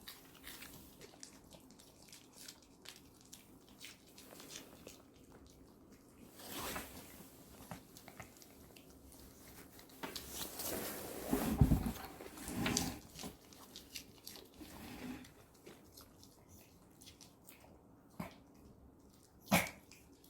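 Pomeranian chewing and crunching salad vegetables in irregular bouts of bites, loudest a little past the middle.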